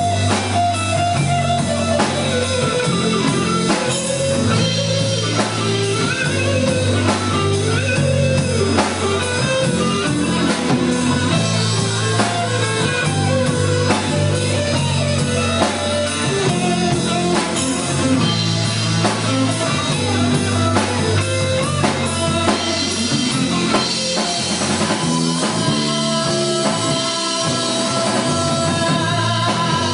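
Live rock band playing an instrumental passage: drum kit and bass with a guitar carrying a bending melody line, and no singing.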